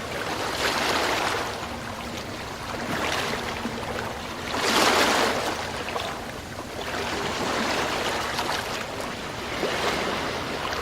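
Sea waves breaking and washing on the shore, in a steady rush that swells and ebbs, with the loudest surge about five seconds in.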